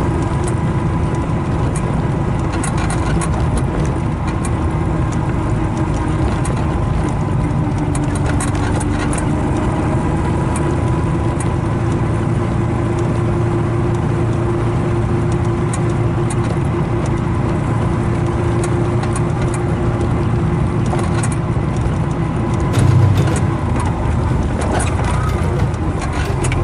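Tuk-tuk's small engine running steadily under way, with road and wind noise. There is a brief louder rumble near the end.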